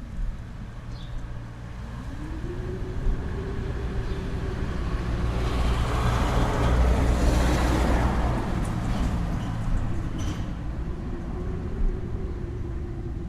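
Motor vehicle going past: a low engine hum whose pitch rises and falls, under a swell of road noise that builds to a peak about seven seconds in and then fades.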